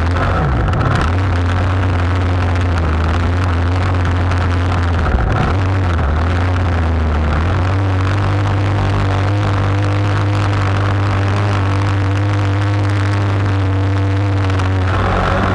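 Boat engine running steadily with a strong low hum. Its pitch dips briefly about half a second in and again around five seconds in, then settles a little higher from about eight seconds on.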